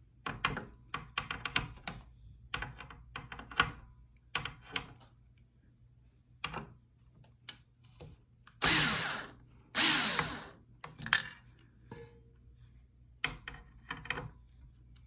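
Power drill backing out the screws that hold ceiling fan blades on: two short runs of about a second each near the middle, each dropping in pitch as it winds down. Before them come scattered clicks and knocks of screws and metal parts being handled.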